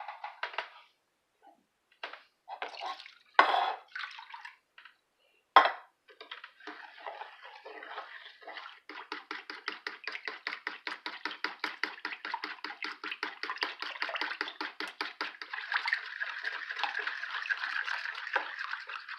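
Cream of chicken soup and milk mixed in a bowl with a fork: first a few pours and two sharp knocks, then from about nine seconds in a fast, steady run of fork strokes against the bowl, several a second.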